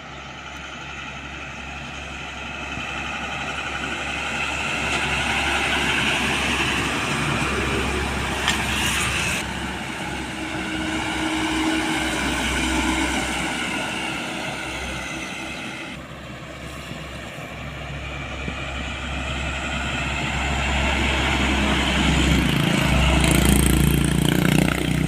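Road traffic with heavy trucks driving past one after another, engine and tyre noise swelling and fading as each goes by, loudest near the end.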